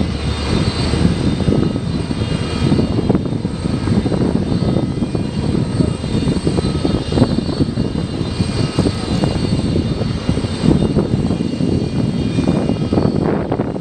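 Jet aircraft engines running steadily: a loud, deep rumble with several high, steady whining tones over it.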